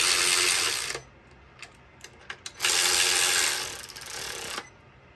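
A ratchet wrench tightening a fastener in two runs, one of about a second and one of about two seconds, each starting and stopping suddenly.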